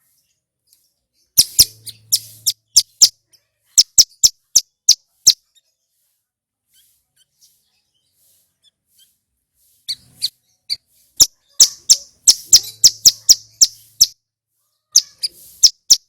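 Ciblek gunung, a prinia, calling with runs of short, sharp, loud chirping notes. The runs break off for a few seconds partway through.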